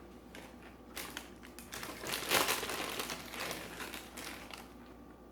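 Irregular crinkling and crunching noises close to the microphone, loudest about two seconds in.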